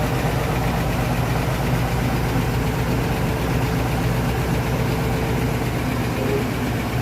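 GAZ-12 ZIM's inline-six flathead engine idling steadily after being started.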